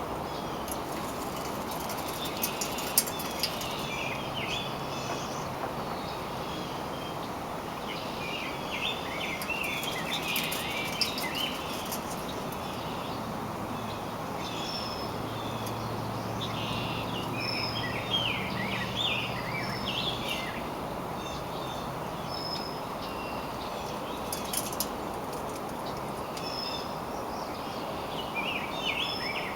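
Birds chirping in short bursts of quick high notes, coming and going several times, over a steady outdoor background hiss. A faint low hum runs through the middle.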